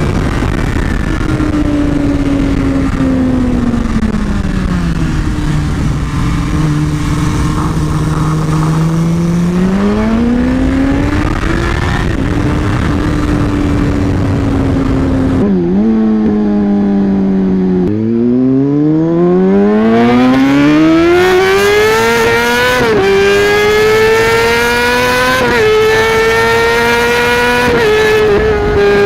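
Motorcycle engines running hard. In the first half, the engine note falls as it slows and then rises again. After a cut about halfway through, a motorcycle accelerates hard through the gears, its pitch climbing with a brief drop at each of three upshifts.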